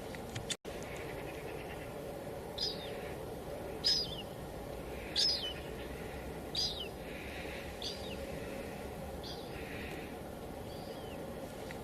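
Steady light drizzle, with a bird giving a short, high, falling call again and again, about every second and a half. Just after the start the sound drops out for an instant.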